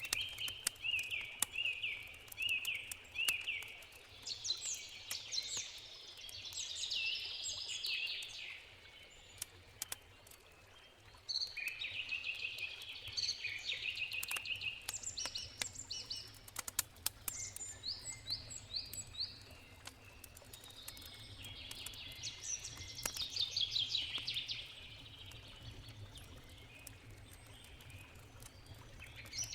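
Wood campfire crackling with scattered sharp pops, while songbirds sing several phrases of quick repeated high notes over it.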